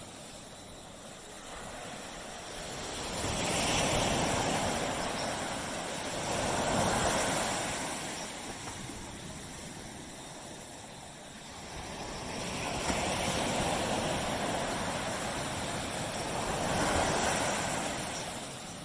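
Sea waves breaking and washing up a tropical beach, rising and falling in slow surges, with four louder washes a few seconds apart.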